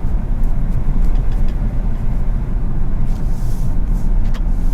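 Car driving: steady low rumble of engine and road noise.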